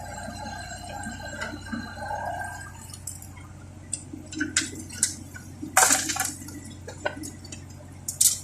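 Heavy raindrops splattering irregularly on a vehicle's body and windscreen over a steady low hum, the splats coming thicker and louder after about three seconds.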